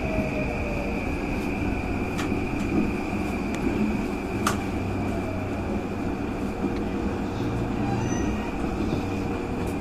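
Keihin-Tohoku line E233-series electric commuter train running, heard from inside the carriage: a steady rumble of wheels on rail with a constant high whine, and a single sharp click about four and a half seconds in.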